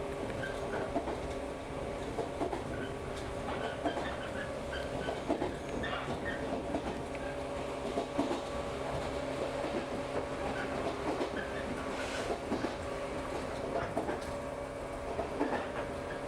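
Electric local train running, heard from inside the carriage: a steady rumble with a constant hum from the running gear, and scattered clicks and knocks from the wheels on the track.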